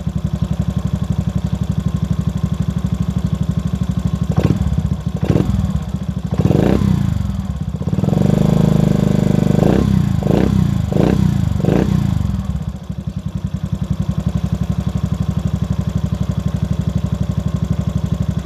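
Race-tuned 1976 Honda Novio's 50cc four-stroke single running through a LeoVince titanium exhaust: idling with a steady pulse, then revved in short throttle blips and one rev held for about two seconds, before settling back to idle about 13 seconds in.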